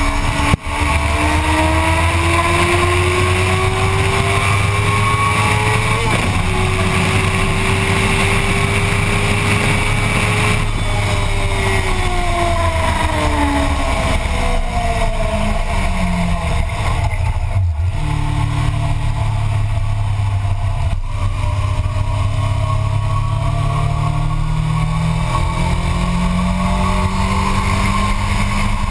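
Motorcycle engine on track at speed: it pulls up through the revs with a gear change about six seconds in, winds down for roughly six seconds as the bike slows into a corner, then accelerates hard again. A steady rush of wind noise runs underneath.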